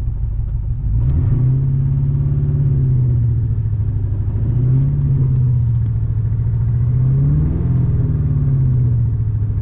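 Honda Civic four-cylinder engine running, brought up off idle about a second in and held at raised revs, swelling slightly twice and easing back near the end. The engine is misfiring, which the owner says gets worse once it reaches the thousands of rpm.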